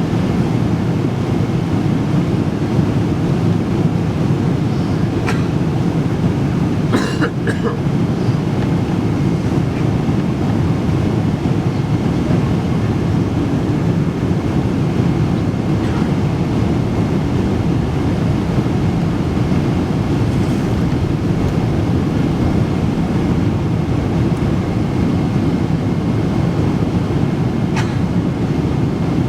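Steady cabin noise of a jet airliner in flight: engine and airflow noise, deep and unbroken, with a few brief faint knocks about seven seconds in.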